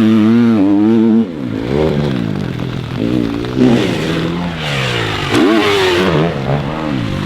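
Dirt bike engines revving as they are ridden, the pitch rising and falling over and over with throttle and gear changes, loudest in the first second.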